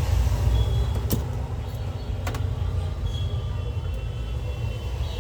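Steady low background rumble with two sharp clicks, one a little over a second in and one just over two seconds in.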